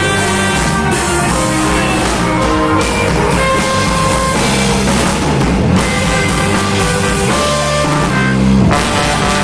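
Reggae band music, with drum kit and guitar playing over strong low bass notes.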